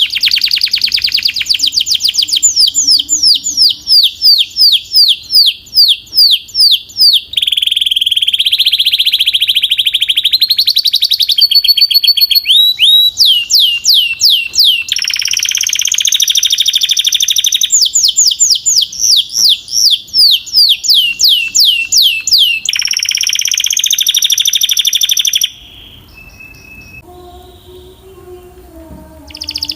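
A domestic canary singing: series of rapid, repeated falling whistled notes, several a second, alternating with steady buzzing trills. The song breaks off about four seconds before the end.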